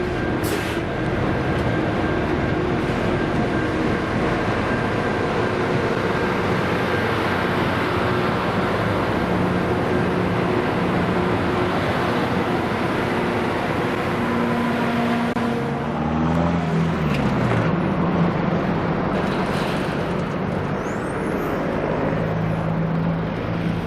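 Rail grinder at work: grinding stones on the rails give a loud, steady noise over the running diesel engines. About two-thirds of the way through, the engine note shifts and settles lower.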